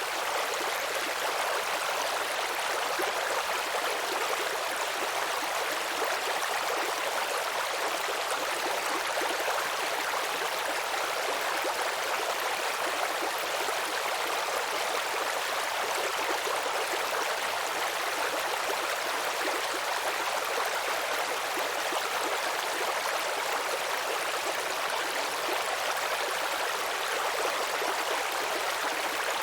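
Babbling brook: shallow stream water running and trickling steadily over stones, an even rushing hiss with no breaks.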